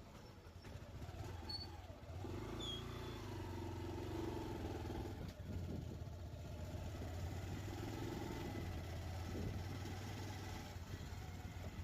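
A motor running steadily with a low hum, which comes in about two seconds in.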